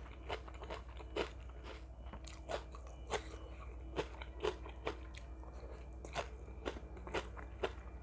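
A person chewing crunchy food close to the microphone: irregular crisp crunches, about two a second, over a faint low hum.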